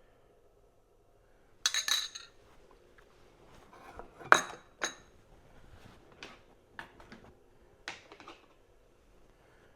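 Metal utensil clinking and tapping against a plate and dishes: a quick cluster of ringing clinks, one sharp loud clink about four seconds in, then a few lighter taps.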